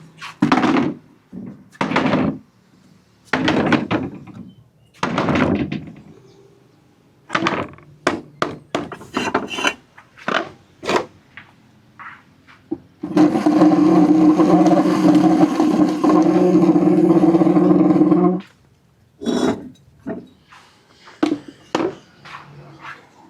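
Marbles running down a wooden marble run: repeated knocks and clatters as they drop onto and bounce along the wooden ramps. About halfway through, a loud, steady rolling rumble lasts about five seconds and then cuts off suddenly.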